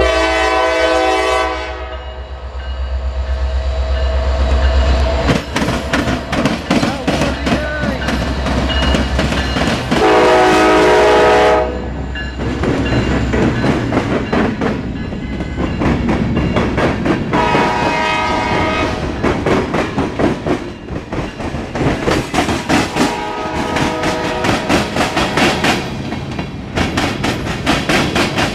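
Norfolk Southern diesel freight locomotive passing and sounding its horn in four blasts. The engine's low rumble is strong for the first five seconds or so, then the wheels of the cars clack steadily and rapidly over the rail joints.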